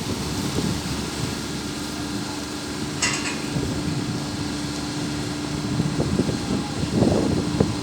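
A heavy vehicle's diesel engine running steadily, with a brief hiss about three seconds in and a louder surge near the end.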